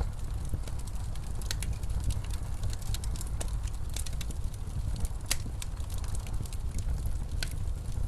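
Wood fire crackling in a fireplace, with irregular sharp pops, over a steady low rumble of blizzard wind.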